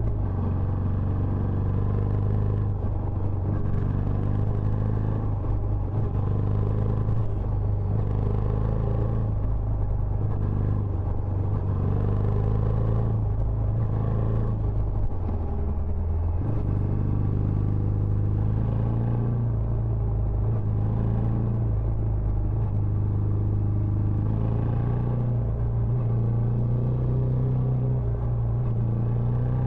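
Benelli Imperiale 400's air-cooled single-cylinder engine running steadily through its stock exhaust, a low, even exhaust note whose pitch dips briefly about halfway through and then recovers.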